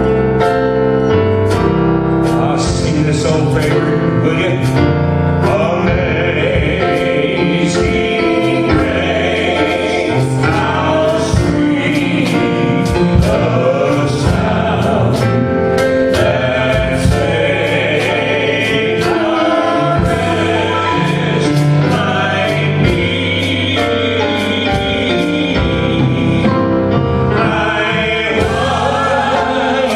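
Gospel hymn sung by a group of voices with piano accompaniment.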